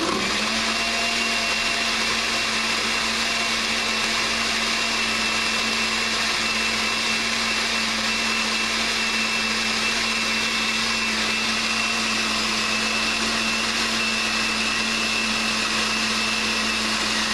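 Blender motor running steadily at a constant pitch, chopping ice in a jar of margarita mixer and tequila; the ice is not yet fully crushed.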